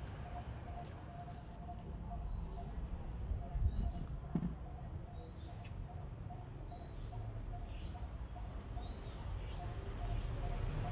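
Small birds chirping: short high chirps about once a second over a steady low rumble, with a few light knocks about four seconds in.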